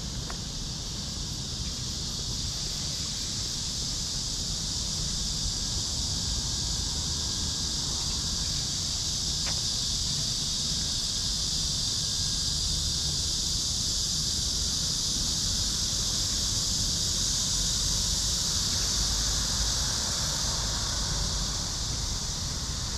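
Steady, high-pitched insect chorus that swells slightly and holds, over a low rumble.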